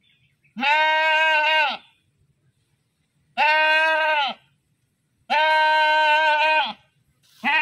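Goat bleating loudly: three long, steady-pitched calls of about a second each, with a fourth starting near the end.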